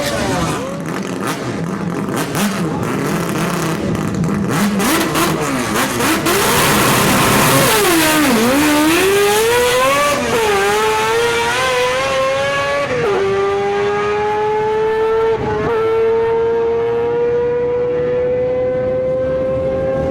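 Four-rotor rotary engine of a Mazda RX-3 built with a 787B-type engine, running hard. For the first seconds it is rough, with sharp cracks. Its pitch then dips to a low about eight seconds in and climbs, drops at an upshift about thirteen seconds in, and rises steadily again as it accelerates through the gear.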